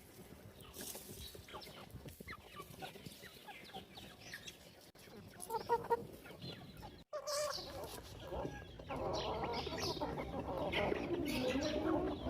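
Free-range chickens clucking, sparse at first and then louder and denser after a brief break about seven seconds in, with short high chirps mixed in.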